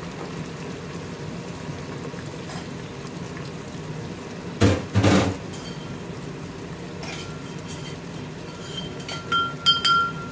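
Onions, green chilli and garlic frying in oil in a stainless steel pressure cooker, a steady sizzle. About halfway through come two loud knocks, and near the end a few metal clinks that ring briefly.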